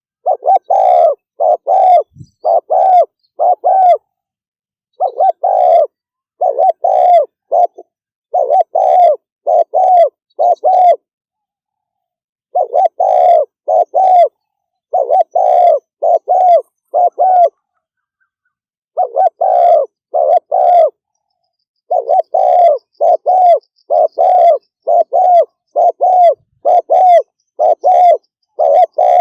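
Spotted dove cooing in the fast 'thúc gù' style: quick runs of three to six short coos, about two a second, with brief pauses between the runs.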